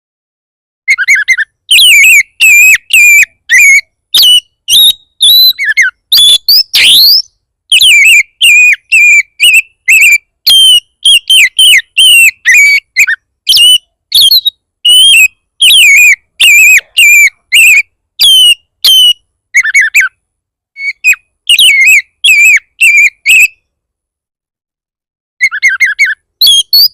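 Oriental magpie-robin (kacer) singing a fierce, fast song: a rapid run of loud, sharp whistled phrases, about two a second, with steep rising whistles, broken by a couple of short pauses late on. This is the kind of aggressive song played to provoke other magpie-robins into answering.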